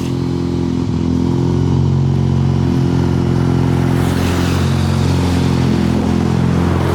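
Turbocharged 13B rotary engine of a Mazda FC RX-7, heard through its oval exhaust piping and Racing Beat muffler, running at a steady speed with no revving. A little more hiss joins in about halfway through.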